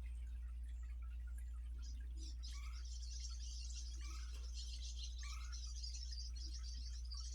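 Wild songbirds chirping, a few short calls over a steady hiss and a low hum.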